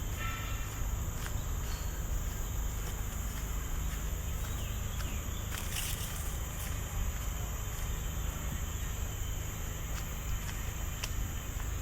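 Steady, high-pitched chorus of tropical forest insects with a fast pulsing texture, over a low rumble, with soft footsteps now and then. A brief rustle about six seconds in.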